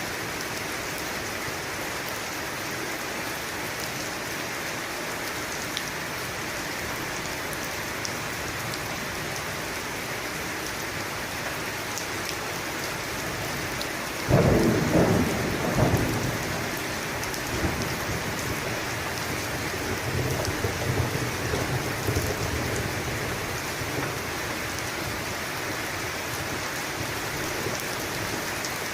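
Steady heavy rain with a sudden clap of thunder about halfway through, rumbling off over a few seconds, and a softer rumble a few seconds later.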